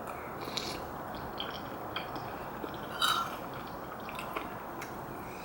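Someone eating Korean rice cake and dumpling soup near the microphone: small wet mouth sounds and clicks, with a louder one about three seconds in, over a steady background hiss.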